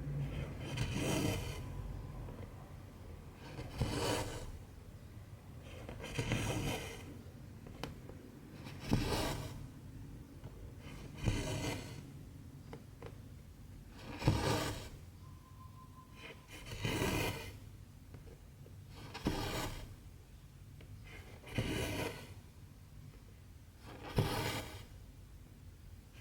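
Cotton embroidery thread being drawn through 14-count cross-stitch fabric, one short rasping swish per stitch. About ten pulls come at an even pace, roughly one every two and a half seconds.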